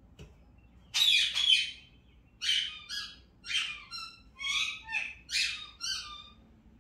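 A pet talking bird calling in a run of short, speech-like phrases: one loud call about a second in, then about seven shorter calls that stop a little before the end.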